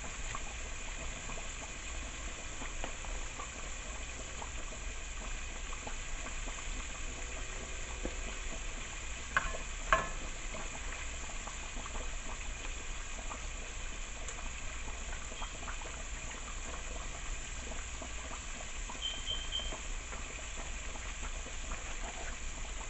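Chicken wings sizzling steadily as they cook in hot fat on the stove. Two sharp knocks come close together about ten seconds in, and three quick faint high beeps sound near the end.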